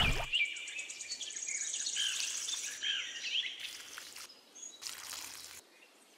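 Birds chirping in short quick calls over a fast, high insect trill. It thins out and fades toward the end.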